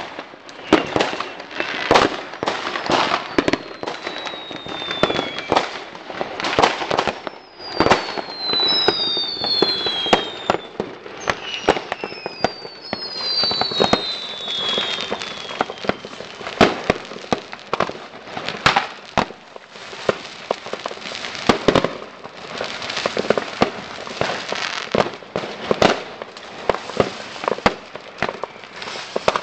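Many fireworks and firecrackers going off at once: a continuous run of bangs and crackles. Several high whistles falling in pitch sound between about 3 and 15 seconds in.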